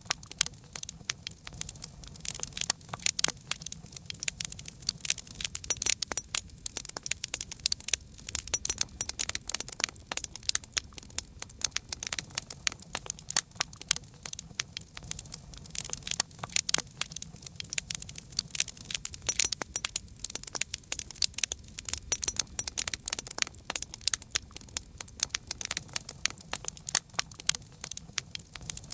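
Wood fire crackling: dense, irregular sharp pops and snaps over a faint low rumble of the flames.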